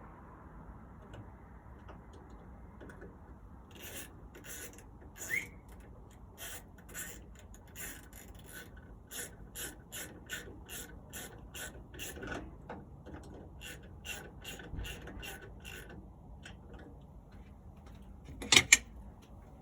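Ratchet wrench working screws on the smoker's auger-motor assembly: a run of short rasping clicks at about two to three a second, stopping and starting. A loud sharp double knock of metal parts comes near the end.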